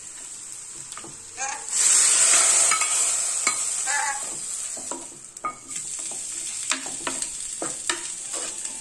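Oil sizzling in a pan as a tempering of mustard seeds, garlic and curry leaves fries, with a spoon stirring and clicking against the pan. The sizzle surges loudly about two seconds in, then settles back to a steady hiss with scattered clicks.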